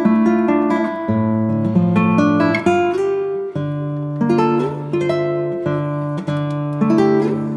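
Background music: an acoustic guitar strumming and picking chords, changing chord every second or so.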